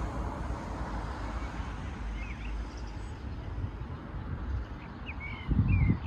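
Outdoor ambience with a steady low rumble and small birds chirping a few times. Near the end comes a brief, louder low blast, like wind buffeting the microphone.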